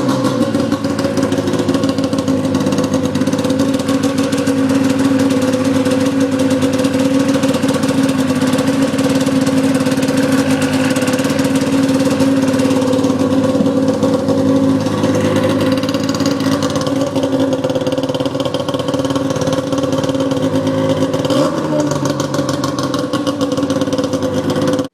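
Polaris XC SP 600 snowmobile's two-stroke twin engine running steadily at a fast idle, blipped briefly once near the end, then cut off abruptly.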